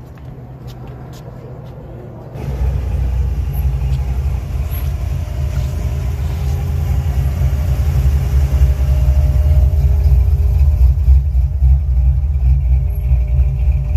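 A car engine running close by, starting abruptly about two seconds in with a deep rumble and growing louder over the next several seconds.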